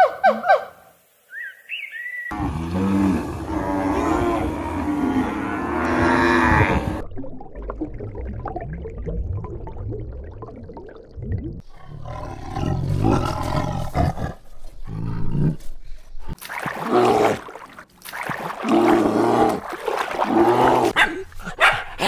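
A few bird chirps fade out at the start. Then come deep animal growls and roars in repeated bursts, which in the later part go with white tigers.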